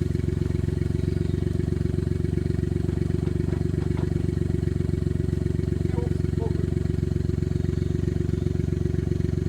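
Vehicle engine idling steadily, its pitch not changing.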